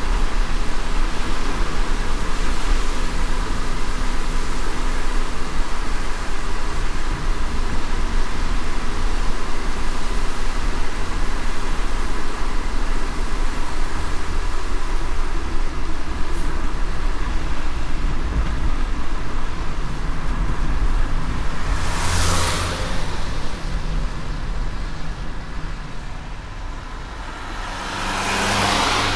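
Car driving in light rain: steady road and tyre noise over a low rumble, with a wash of rain hiss. Two brief whooshes come through, one about three-quarters of the way in and one at the very end, and the noise eases a little between them.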